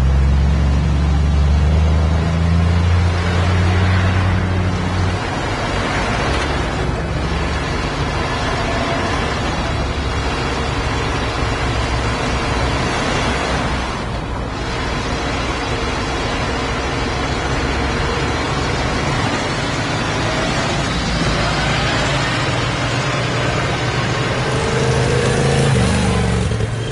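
Tractor engine running: a steady low engine note, strongest for the first five seconds, then lower and mixed with an even broad noise.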